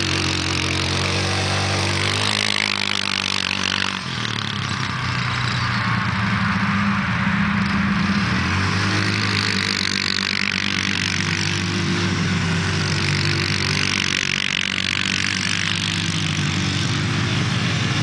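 Dirt bike engine running and revving, its pitch rising and falling again and again, with a brief drop in loudness about four seconds in and a steady hiss over it.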